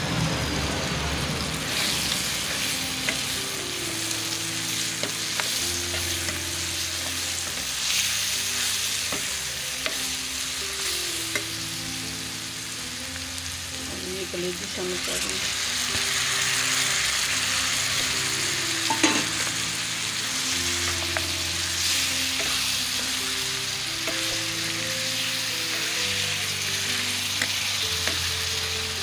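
Oil sizzling steadily as onions, tomatoes and spices fry in a pan, stirred with a steel ladle that clicks against it now and then. Soft background music with slowly changing low notes plays underneath.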